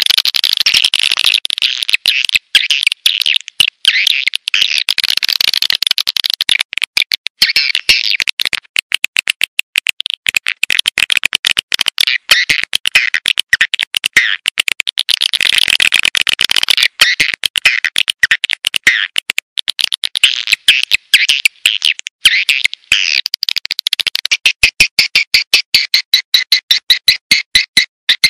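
Swiftlet lure call recording: swiftlets' rapid high twittering chirps and clicks in quick dense trains, turning into a steadier run of evenly spaced pulses near the end. It is the kind of call played to draw swiftlets into a nesting house.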